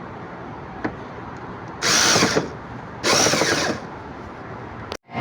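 Power drill driving screws in two short runs, each under a second, while the window air conditioner is put back together.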